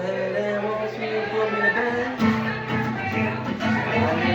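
Music led by acoustic guitar, playing on steadily without vocals.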